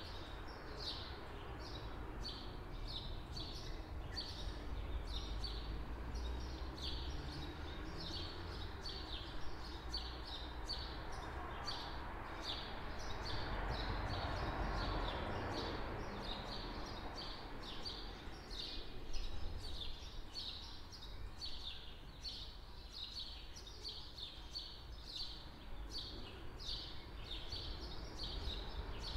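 Small birds chirping over and over, about two short high chirps a second, over a low steady rumble. Around the middle, a broad rushing noise swells and fades.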